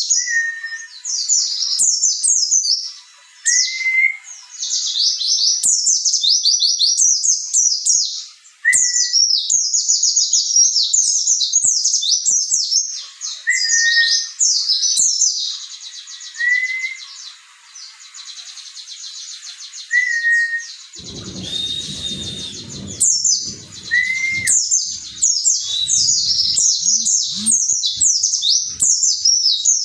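White-eye (pleci) singing a rapid, high twittering song in long continuous runs. Short lower whistled notes come every couple of seconds. A brief low rumble is heard about two-thirds of the way through.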